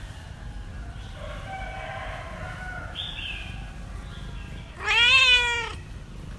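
Cat meowing: fainter calls at first, then one loud meow about five seconds in that rises and then falls in pitch.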